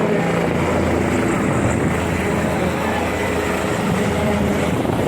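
Helicopter running steadily close by, its engine and rotor making a loud, continuous drone.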